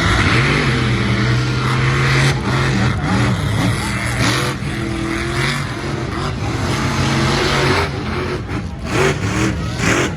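Monster truck engines revving hard in a race. Their pitch holds briefly at first, then climbs and drops again and again as the throttle is worked.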